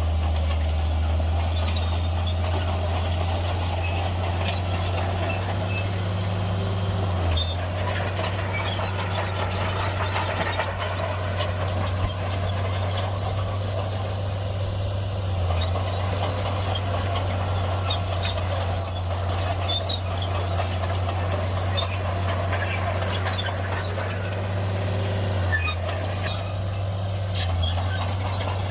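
Heavy diesel earthmoving machinery running steadily at a low, constant engine note, with scattered metallic clanks and rattles over it. The engine note dips briefly a few times.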